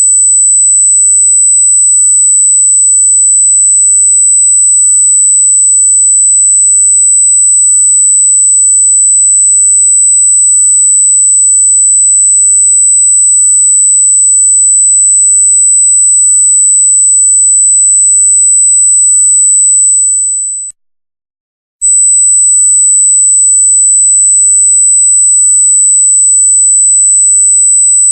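A loud, very high-pitched electronic pure tone held steady at one pitch, the 'annoying noise' itself. About three-quarters of the way through it cuts out for about a second, then resumes at the same pitch.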